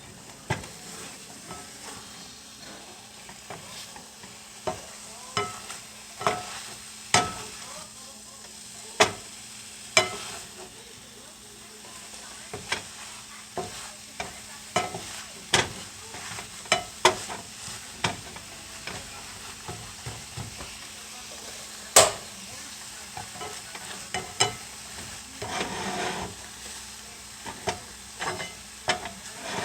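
A utensil knocking and clacking against a pan in irregular sharp strikes while food sizzles in the pan with a steady hiss.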